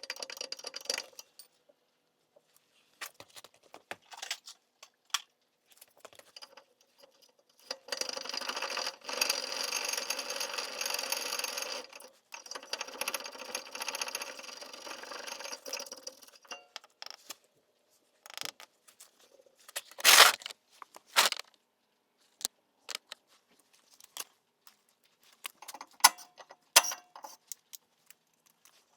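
Metal tools and parts clinking, tapping and scraping during hands-on brake work, with a longer stretch of continuous rattling noise a third of the way in and a few louder knocks past the middle.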